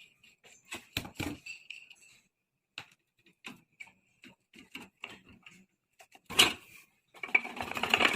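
Scattered clinks and knocks of metal parts and hand tools being handled while a rusty moped is dismantled, with one louder knock about six seconds in, followed by a second or so of rattling.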